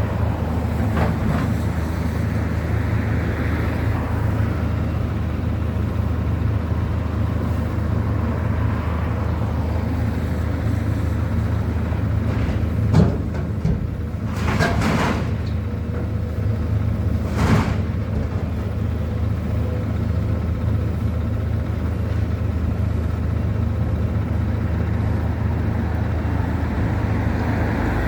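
Steady low engine rumble, with a few short noisy sounds about halfway through.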